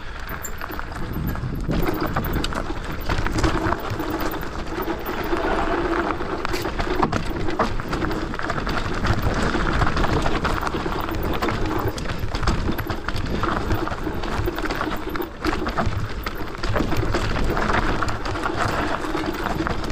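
Bike riding down a rough trail: tyres rolling over dirt and rocks with a steady rumble, and frequent knocks and rattles from the bike jolting over bumps.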